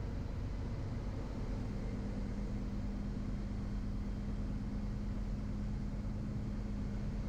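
Steady engine and airframe noise inside the cockpit of a Van's RV-12 light aircraft in cruise, its Rotax 912 engine running evenly. A steady low hum comes in about a second and a half in.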